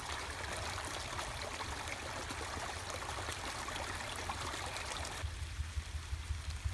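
Rain-swollen creek running, a steady rushing of water. About five seconds in, the rushing drops away suddenly, leaving a low rumble with irregular thumps.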